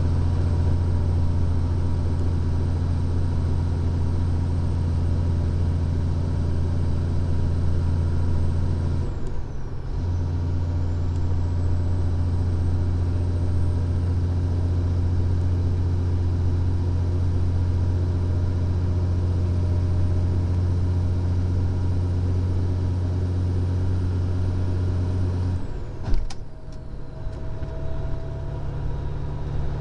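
Diesel engine of a Freightliner Columbia semi truck heard from inside the cab, running with a steady low drone while descending a steep grade. The drone drops out briefly about nine seconds in and resumes. Near the end it cuts off with a sharp click and carries on quieter at a different pitch.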